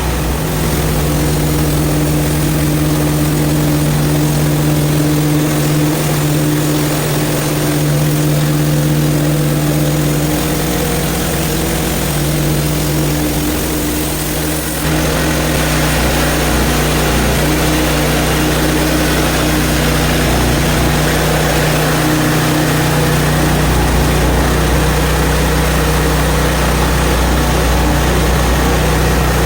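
The 23 hp Briggs & Stratton engine of a portable bandsaw mill runs steadily under load as the band blade cuts into a frozen log. A harsher hiss joins the engine tone about halfway through.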